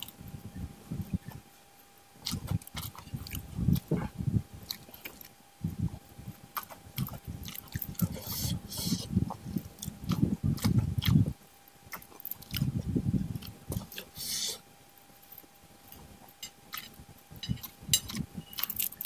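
Close-miked chewing and mouth noises of someone eating rice mixed with sambal and fried catfish, broken by scattered sharp clicks. There are two short hisses, one about eight seconds in and one near fourteen seconds.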